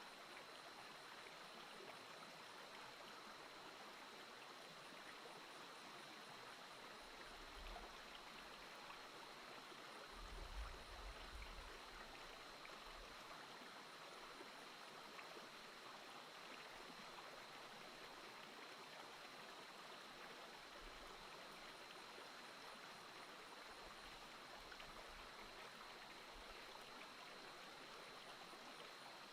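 Faint, steady running water of a small stream, with a few low bumps about a third of the way in.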